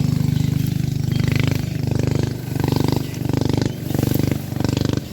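Fishing reel being cranked fast to bring in a hooked fish, its gears giving a loud, buzzing whir. The whir is steady at first, then comes in short spurts about every 0.7 s.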